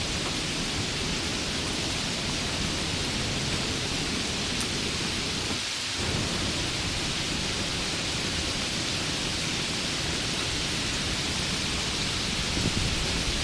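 Steady rain, an even hiss with a low rumble underneath; the low rumble drops out briefly about six seconds in.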